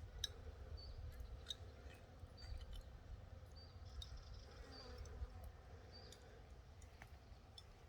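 Faint forest ambience: a small bird repeats a short high call note about once a second over a low rumble, with a few faint ticks.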